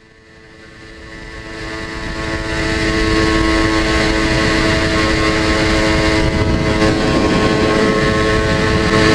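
An engine droning at one steady pitch, fading in over the first three seconds or so and then holding steady and loud.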